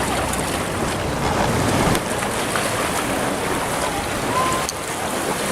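Wind buffeting the microphone over the wash of Gulf surf, the low rumble of the wind heaviest in the first two seconds.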